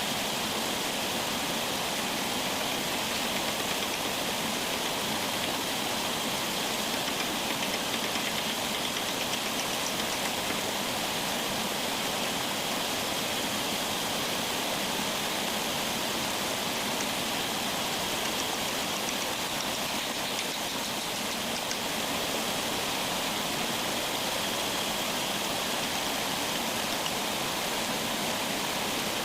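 Steady hiss of water, even and unbroken throughout.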